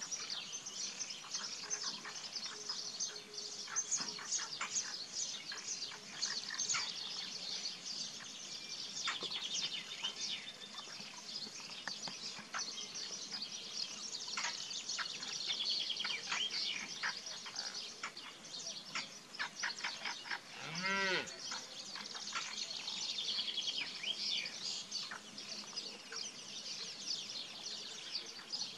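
Outdoor bird chorus: many birds chirping and calling over one another in quick short notes, with one brief lower call about three quarters of the way through.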